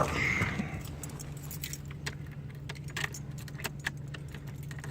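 Keys on a ring clinking and jangling in irregular light clicks, over a steady low hum.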